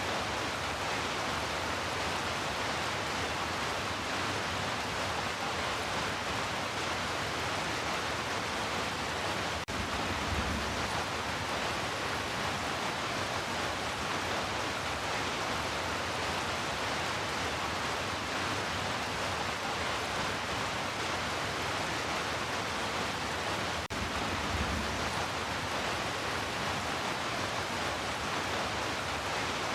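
Heavy rain falling in a steady, even hiss, with a brief low rumble twice, about fourteen seconds apart.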